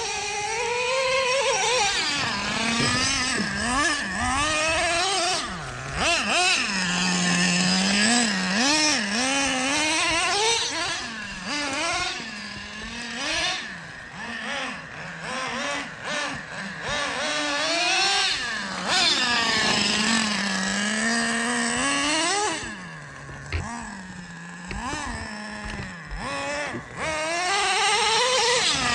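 Nitro RC truck's small two-stroke glow engine revving up and down again and again as it is driven, its pitch climbing and dropping with each pull of the throttle.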